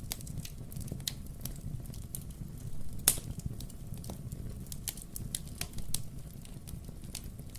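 Wood fire crackling in a fireplace: a steady scatter of small sharp pops over a low rumble, with one louder pop about three seconds in.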